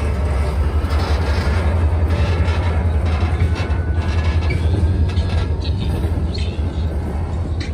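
Diesel freight train running along the branch line: a steady low engine rumble, with wheels clicking over the rail joints and a few faint high wheel squeals late on.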